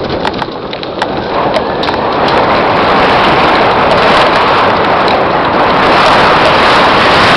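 Mountain bike setting off downhill on a dirt trail: scattered clicks and knocks in the first two seconds, then a rushing roar of wind on the microphone and tyre noise that swells as the bike picks up speed and stays loud.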